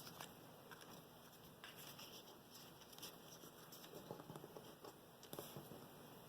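Faint rustles and light taps of paper card stock being turned over and handled on a table.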